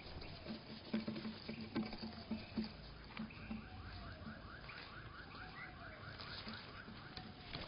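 Birds at a seed feeder slowed to one-third speed, so every sound is drawn out and deepened: irregular taps and knocks, with low, slow, falling chirps. A rapid run of repeated notes lasts from about halfway to near the end.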